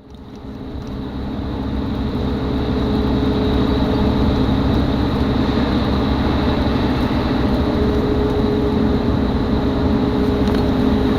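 Steady engine drone of a moving vehicle, a low rumble with a constant hum over it, fading in over the first couple of seconds.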